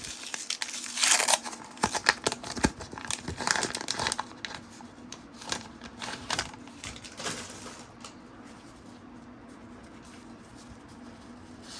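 Trading-card pack wrapper crinkling and tearing as it is opened, with cards being handled; the crackling dies down after about eight seconds.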